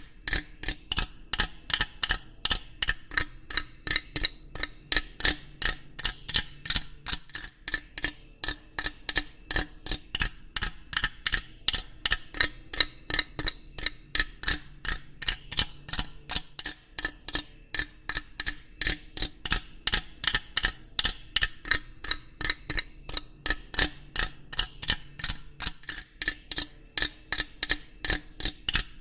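A steady, even ticking, about three sharp ticks a second, over a faint low background hum.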